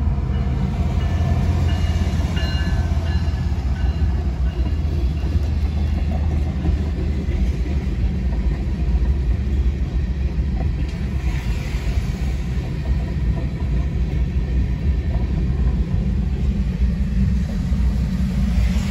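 CSX freight train passing a grade crossing: the ES44AH locomotive and then a long string of covered hopper cars rolling by in a steady low rumble, heard from inside a car's cabin.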